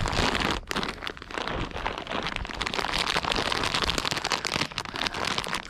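Crunching footsteps of someone walking: a dense run of small crackling steps and scrapes.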